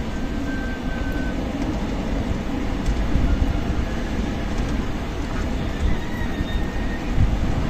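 Strong desert wind blowing in a steady low rush, with faint high whistles now and then.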